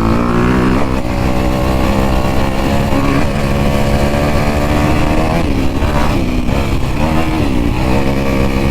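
Off-road motorcycle engine being ridden hard, its pitch climbing and dropping several times as the throttle is opened and closed and the gears change.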